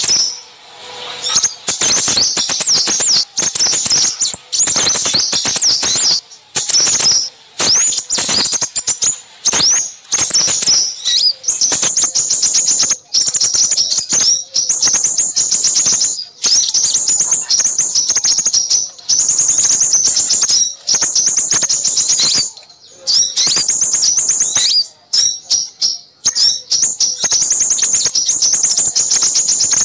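A dense chorus of small songbirds: rapid, high, busy chirps and trills in runs with short breaks. It is a bird-catchers' lure recording of small-bird calls, played to draw in crimson sunbirds.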